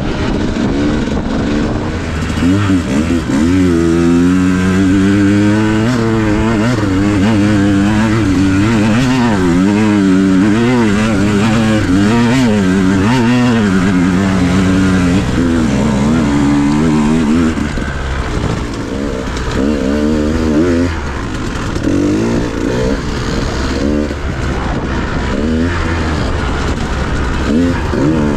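Dirt bike engine under constant throttle changes on a trail, its pitch rising and falling about once a second. After about eighteen seconds it settles to lower revs with short blips of throttle.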